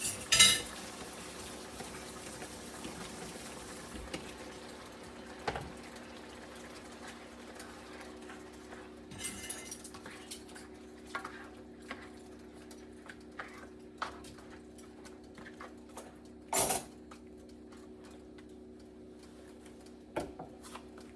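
A metal spoon and cooking pot clink now and then: a few short, sharp knocks, the loudest about three-quarters of the way through. Beneath them runs a steady low hum.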